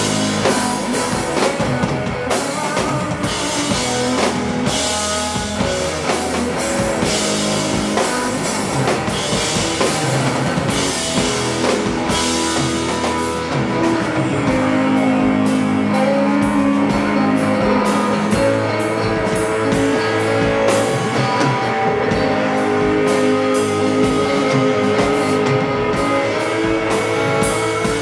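Live rock band playing an instrumental passage: electric guitar, bass and drum kit with steady cymbal hits.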